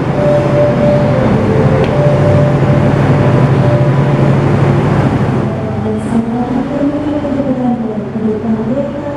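Passenger train running on the rails: a loud rumble with steady squealing tones, which dies down about five and a half seconds in.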